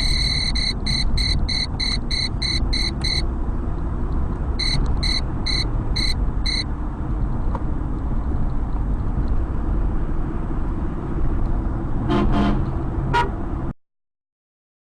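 Car horn: a long blast, then two runs of quick short honks, about three a second, over steady road and engine noise. A brief sound follows near the end, and then the audio cuts off suddenly.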